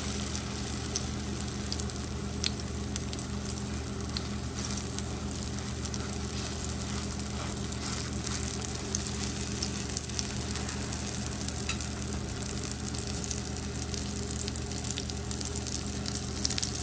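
Egg-coated roasted eggplant omelette (tortang talong) frying in olive oil in a nonstick pan: steady sizzling with small crackles of spattering oil.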